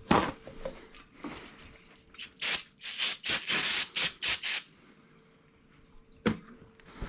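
Workshop clean-up handling: a knock, then a quick run of short, hissing or scratchy strokes about two seconds in, and a sharp tap near the end.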